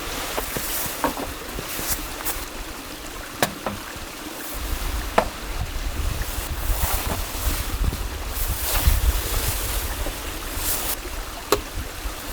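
Wind rumbling on the microphone over a steady rush of water, with scattered sharp ticks and taps.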